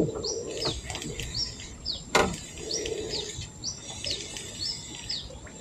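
A bird calling a short high chirp over and over, two or three times a second, with a faint steady high whine behind it. A sharp click sounds right at the start and another about two seconds in.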